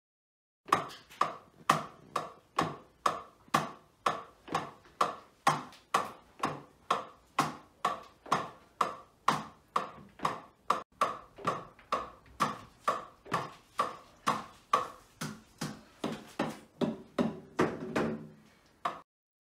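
Drumsticks striking the pads of an electronic drum kit in a steady beginner's 8-beat rhythm, about two hits a second. The hits stop about a second before the end.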